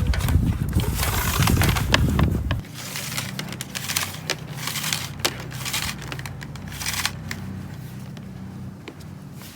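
Crinkling and rustling, like material being handled. For the first few seconds, heavy wind buffets the microphone, then it cuts off suddenly.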